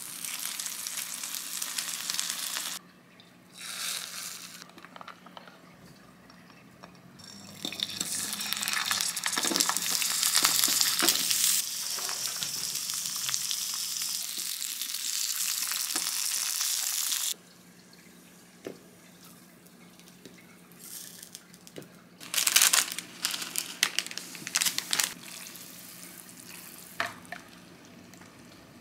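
Eggs and breaded squares sizzling as they fry in a divided nonstick pan. The sizzle is loudest for about ten seconds in the middle and then cuts off suddenly. Later, a few sharp knocks and scrapes of a spatula against the pan.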